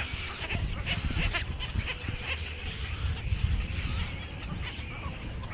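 Many small birds chirping together in a busy chorus of short, quick calls, over a low rumble.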